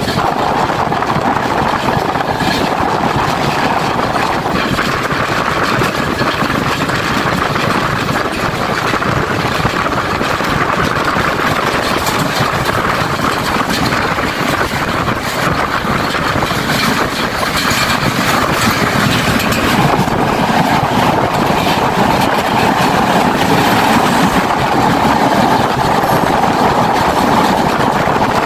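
Passenger train running along the track, heard from inside a carriage at an open window: a loud, steady rolling noise of the wheels and carriage, with scattered light clicks.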